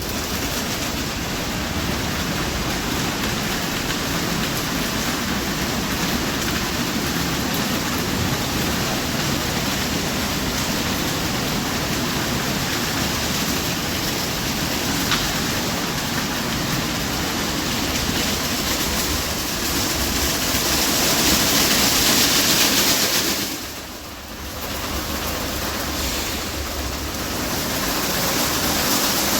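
Automatic car wash working over the car, heard from inside the car as a steady rushing noise. The noise grows louder for a few seconds, dips briefly about three-quarters of the way through, then comes back.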